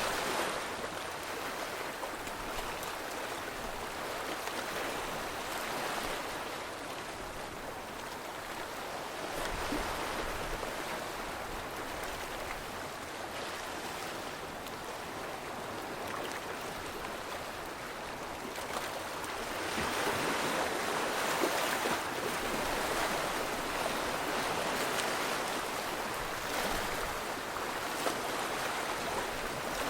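Rushing water: a steady wash of water noise that swells and eases every few seconds, a little louder in the last third.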